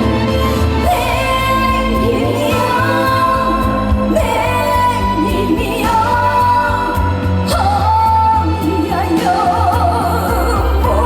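A woman singing a trot song live with band accompaniment, holding long notes with a wavering vibrato.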